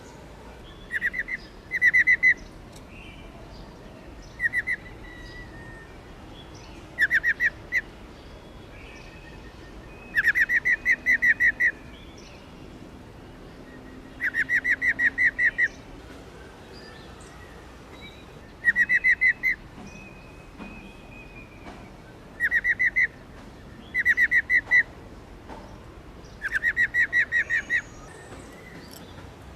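Female black-throated laughingthrush giving its 'ro ro' call: about ten short bursts of rapid, evenly pulsed notes, separated by pauses. It is the female call used to stir up male laughingthrushes.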